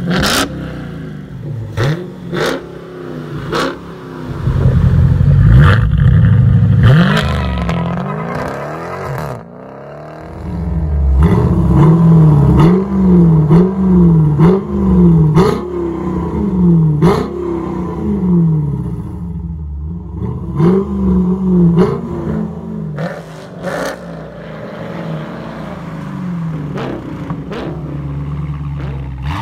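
2019 Dodge Challenger R/T Scat Pack's 6.4-litre HEMI V8 running through a Kinney's Tunnel Ram custom performance exhaust. The engine is held at a loud higher rev, then blipped repeatedly, with about six quick revs that rise and fall, and settles back to a steady idle near the end.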